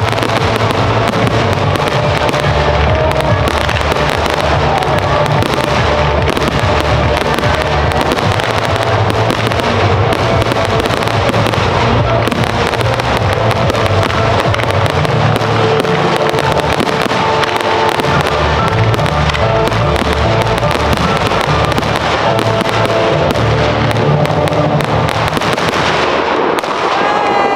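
Fireworks display set to music: a continuous rapid series of pops, bursts and crackles from ground-fired comets, fountains and low aerial star shells, over loud music.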